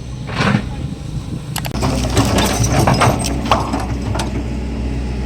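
Excavator's diesel engine running steadily, with several knocks and clanks from the working machine.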